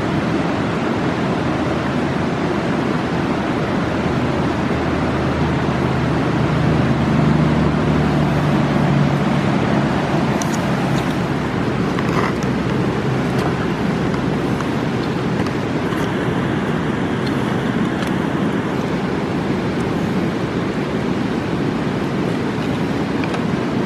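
Steady rushing roar of a fast mountain river, with a few faint sharp pops that fit a campfire crackling. A low hum swells and fades about a third of the way in.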